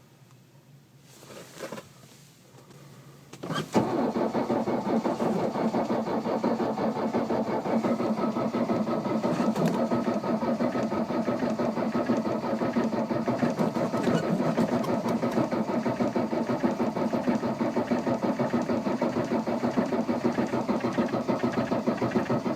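Diesel car engine being cranked on its starter in -20 °C cold. The cranking starts suddenly about four seconds in and runs on as a long, steady pulsing churn without the engine catching: a hard cold start.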